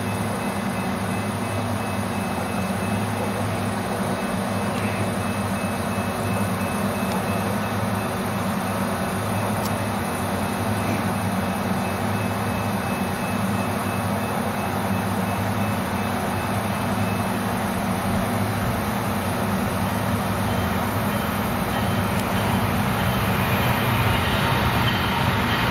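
Approaching Brightline passenger train, its diesel locomotive a steady low drone that grows slightly louder near the end as the train nears.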